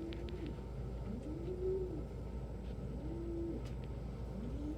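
Domestic pigeon cooing: a low coo that rises and falls, repeated about four times, with a few faint clicks just after the start. It is the cooing of a young cock pigeon that has just grown into it.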